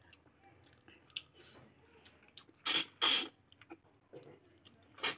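Close-miked eating sounds of pork and rice eaten by hand: soft chewing with short wet smacks, two louder ones a little past halfway and another near the end.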